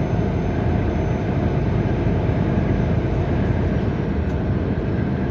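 Semi truck driving at a steady pace: continuous engine and road noise with no distinct events.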